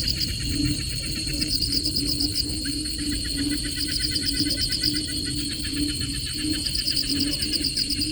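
Chorus of calling animals: high pulsed trills come in bursts every couple of seconds over a steady high buzz, with lower calls repeating about twice a second.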